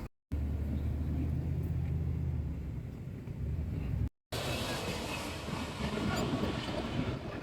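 A steady low engine drone, which cuts off abruptly about four seconds in. It gives way to busy outdoor noise with some faint voices.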